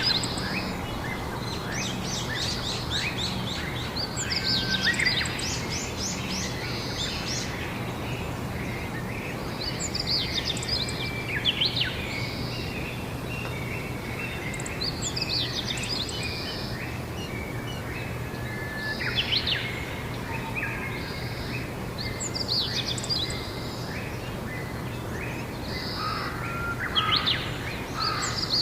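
Songbirds singing outdoors in spring, short quick song phrases repeating every few seconds, over a steady low background hum.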